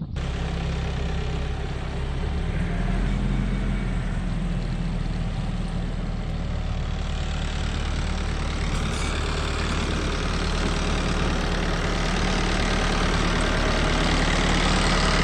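Tractor engine running steadily, growing a little louder near the end.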